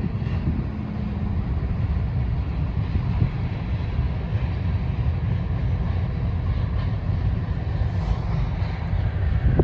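Grain train of covered hopper cars rolling past as a steady low rumble, with wind buffeting the microphone.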